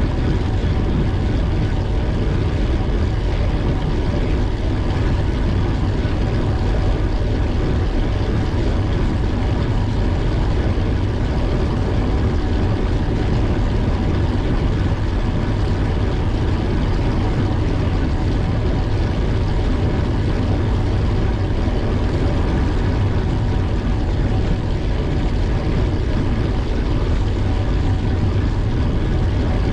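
Steady wind rush on the microphone with tyre and road noise from a bicycle being ridden, strongest in a low rumble and unbroken throughout.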